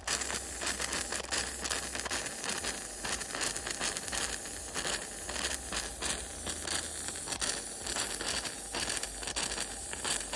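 Continuous irregular crackling from the fire heating the boiler of a Machinator Steamfire model steam engine, still warming up before it makes steam.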